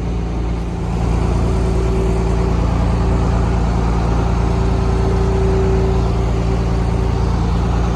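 An engine running steadily at a constant speed, a little louder from about a second in, with a faint high whine coming and going.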